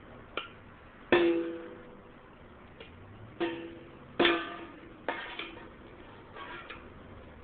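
Irregular strikes on a hard object that rings briefly with a clear pitch after each hit, about nine over several seconds, loudest about a second in.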